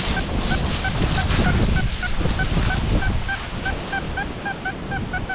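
Heavy wind buffeting the microphone, with a quick run of short high beeps, about three or four a second, over it.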